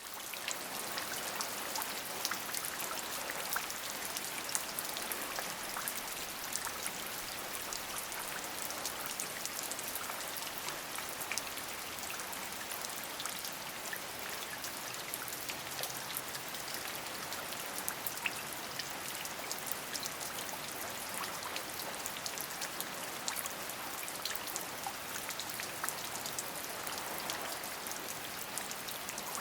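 Rain falling steadily: an even hiss with many individual drops ticking through it.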